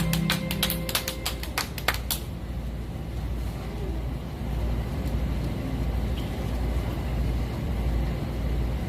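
A few people clapping briefly, for about two seconds, as the last chord of the band's song rings out. Then a steady low rumble of street background noise.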